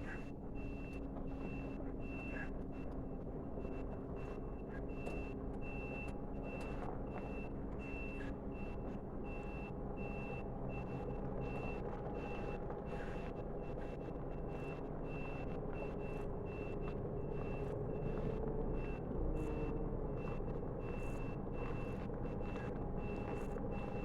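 Truck engine running steadily with a high-pitched reversing alarm beeping over it throughout.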